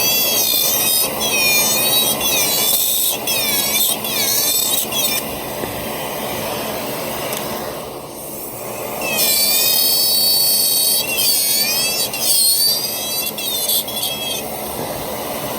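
High-speed dental lab rotary handpiece cutting a tooth out of a model. Its high whine repeatedly dips in pitch and recovers as the bur bites into the material, in two long stretches of cutting with a pause between, over a steady hiss.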